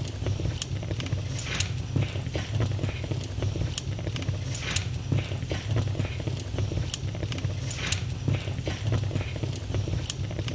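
Wood fire in a fireplace crackling: many small ticks and a sharp pop every second or two over a steady low rumble.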